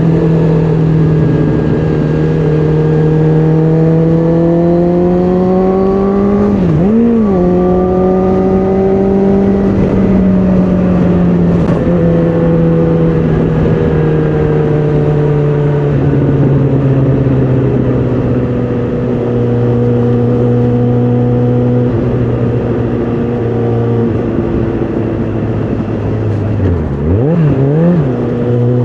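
2010 Suzuki GSX650F's 656 cc inline-four engine and exhaust under way, heard from the rider's seat. The note climbs steadily at first, rises and falls quickly about seven seconds in, then steps down in pitch twice and holds a fairly steady cruise. It gives a couple of quick revs up and down near the end.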